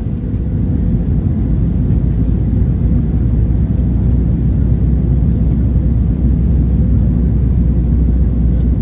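Steady low rumble of jet engine and airflow noise heard inside the cabin of an Airbus A321 airliner.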